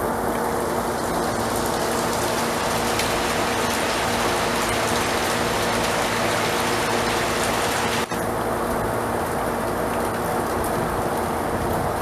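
Heavy rain pouring steadily, a dense even hiss of drops on surfaces. It drops out for an instant about eight seconds in, and the hiss is a little duller after that.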